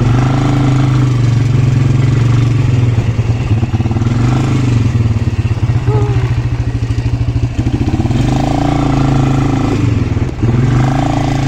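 Quad bike engine running as it is ridden, its pitch rising and falling as the throttle opens and eases off, dropping to a slow low putter about halfway through before picking up again.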